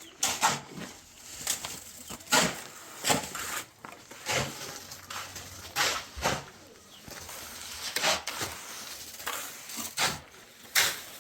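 A series of short, sharp knocks or scrapes at an irregular pace, roughly one a second.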